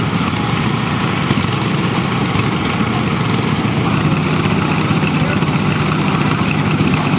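Garden tractor engine running steadily.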